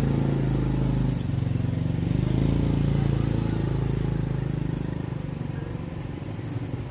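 An engine running close by, starting suddenly and loud with a steady low hum, then easing off over the last few seconds.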